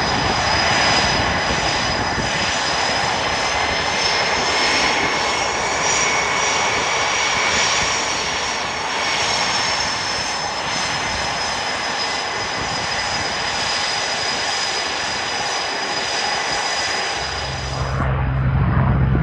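Aircraft engine noise as a plane flies past: a steady, loud engine noise with a high whine that rises slightly and falls back about midway. Near the end it changes suddenly to a deeper rumble.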